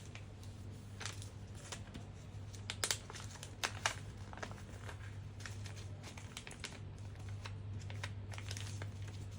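A rectangular sheet of paper handled and folded by hand: irregular crinkling and rustling with sharp crease snaps, a few louder ones around three and four seconds in. A low steady hum runs underneath.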